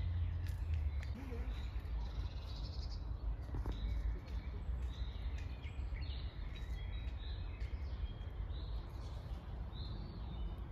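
Songbirds chirping and calling in scattered short notes, over a steady low rumble that is strongest in the first few seconds.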